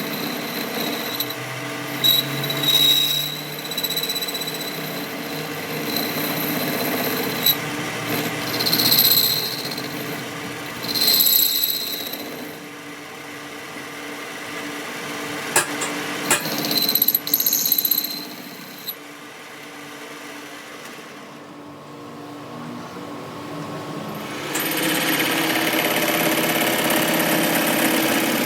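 A power tool running in short bursts with pauses between them, with a few sharp knocks about halfway through; near the end a steadier machine sound starts and keeps running.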